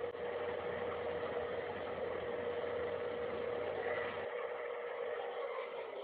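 A steady droning hum with a held tone and hiss over it; a deeper rumble underneath drops away about four seconds in.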